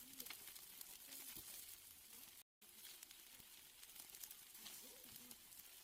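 Steaks sizzling on a grill: a faint, even crackle and spatter of fat, with a brief dropout to silence about halfway through.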